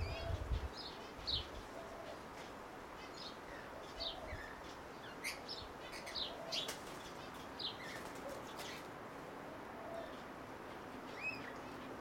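Birds calling with short, scattered chirps and whistles, some sliding down in pitch. A brief low rumble in the first second.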